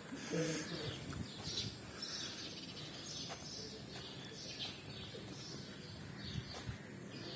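Small birds chirping again and again, short high calls every second or so, with a person's voice briefly heard near the start.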